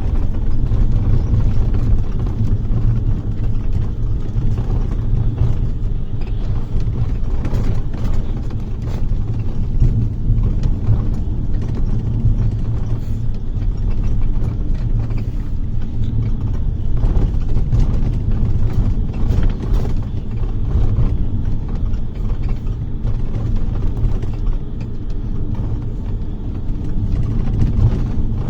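Steady low rumble of a moving bus heard from inside the cabin: engine and road noise, with faint scattered rattles.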